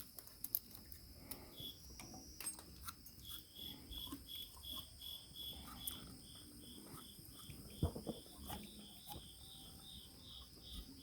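Faint cricket chirping steadily, about three high chirps a second, with a few soft knocks and clicks from hand tools, the loudest about eight seconds in.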